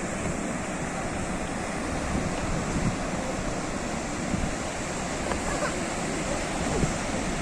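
Sea surf washing on the shore: a steady, unbroken rush of waves with no single distinct crash.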